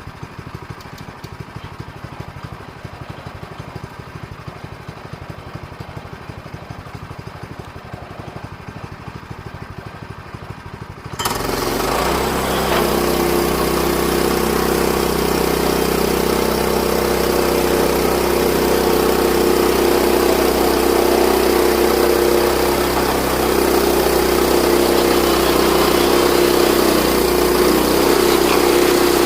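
Sawmill's gas engine idling with a low, even pulse, then throttled up suddenly about eleven seconds in and running steadily at high speed, much louder.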